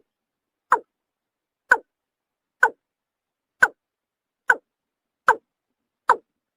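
Watercock (kora) calling: a regular series of short, hollow notes, each falling in pitch, about one a second and quickening slightly. Seven notes, with silence between them.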